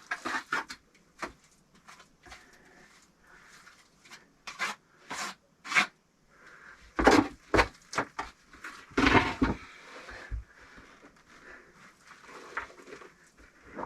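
Bricks being set down and shifted into place while a stove is laid: scattered knocks and clicks, with two longer scrapes about seven and nine seconds in.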